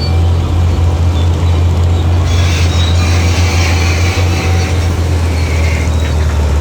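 Heavy diesel construction machine engine running with a steady low drone. A harsher, higher rushing noise joins from about two seconds in and fades out about six seconds in.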